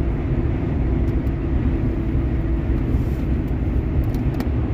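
Steady road noise inside a car driving at highway speed: a low, even rumble of tyres and engine.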